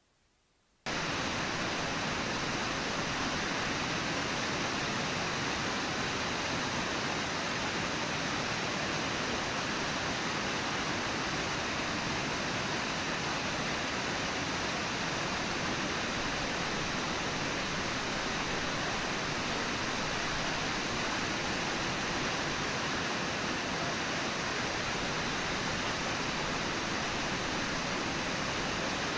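Steady rushing of river water, cutting in abruptly about a second in and holding even throughout.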